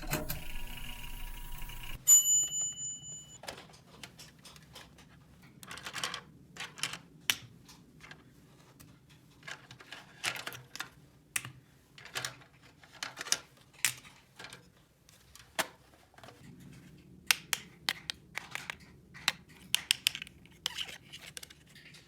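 Small plastic toy pieces clicking and tapping as they are handled, in irregular sharp clicks. A brief high steady tone sounds about two seconds in.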